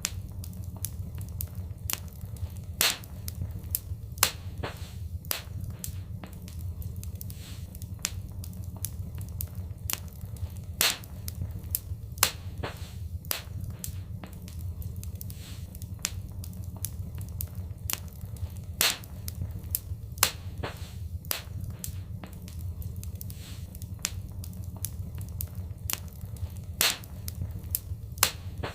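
Fireplace fire crackling with irregular sharp snaps and a few louder pops, over a steady low rumble.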